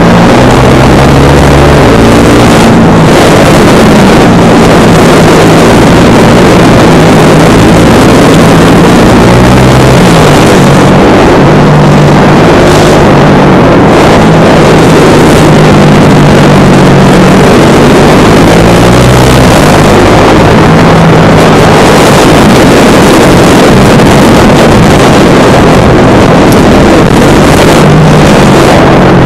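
Husqvarna Vitpilen 701's single-cylinder engine running loud under way, its pitch stepping up and down with throttle and gear changes, over heavy wind noise on the microphone.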